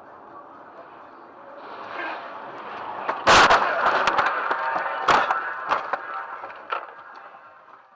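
Road traffic collision heard through a dashcam: driving noise builds, then a loud crash about three seconds in, a second hard impact about two seconds later, and a few smaller knocks as it settles.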